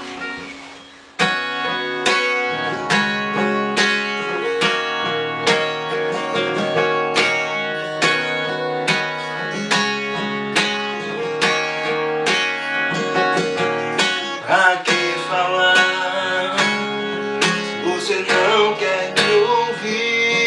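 Acoustic guitar strumming chords in a steady rhythm, about two strums a second, starting a second in.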